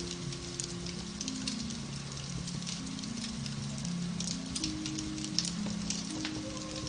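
Beech-log fire in a fireplace crackling, with many small irregular pops over a soft hiss. Gentle music of held low notes runs underneath.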